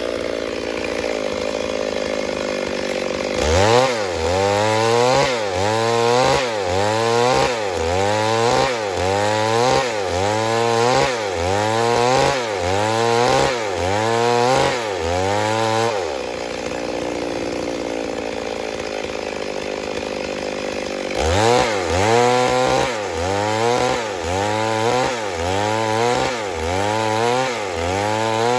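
Stihl MS 382 two-stroke chainsaw running. It settles into a steady drone for the first few seconds and again in the middle, and otherwise its pitch rises and falls about once a second.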